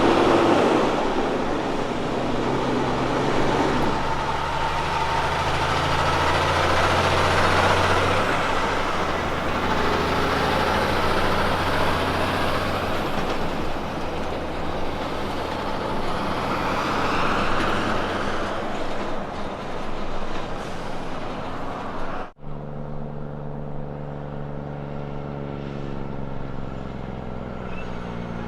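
Heavy diesel truck engine of a road train prime mover under way, its pitch stepping as it moves through the gears, with road and tyre noise. About 22 seconds in it breaks off abruptly and gives way to another diesel truck engine running steadily.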